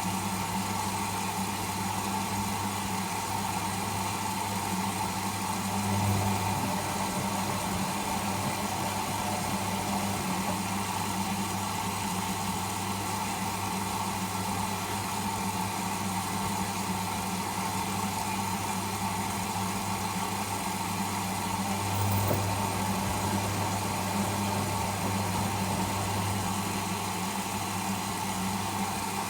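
Whirlpool Indiana 1400 washing machine running with a steady motor hum, swelling slightly twice.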